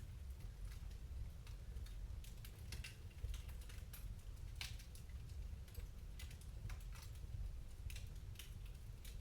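Wood fire crackling in a fireplace: irregular small pops and snaps, a few sharper ones, over a steady low rumble.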